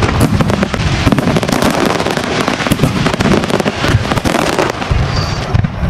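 Aerial fireworks display: a dense, unbroken barrage of rapid bangs and crackling from many shells bursting at once.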